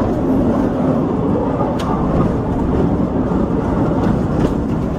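Steady rumble and rattle of a North Borneo Railway train running along metre-gauge track, with a couple of sharp clicks from the wheels.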